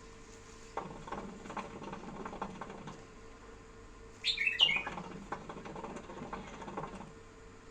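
Pet bulbul giving one quick burst of bright, high chirps about four seconds in. Two stretches of soft scratchy rustling with small ticks come before and after it.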